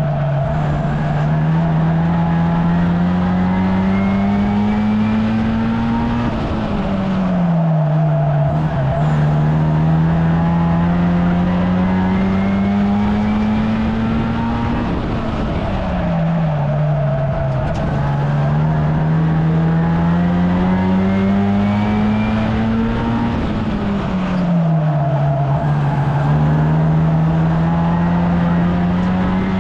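1300cc stockcar engine racing round a short oval. It climbs steadily in pitch along each straight, then drops sharply as the driver lifts for the bend, three times, about every eight and a half seconds.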